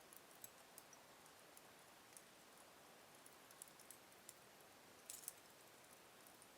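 Slow-burning wood fire in a fireplace crackling faintly: scattered small, sharp pops over a soft hiss, with a quick cluster of louder crackles about five seconds in.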